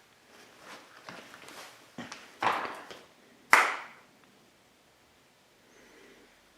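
Sharp knocks and clacks of dirt bike front-end parts being handled and set in place, with several light taps and then two louder knocks about two and a half and three and a half seconds in, the second ringing briefly.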